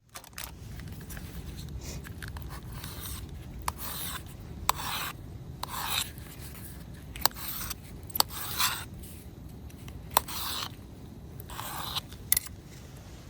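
A series of short scraping or rubbing strokes at an uneven pace, with a few sharp clicks between them.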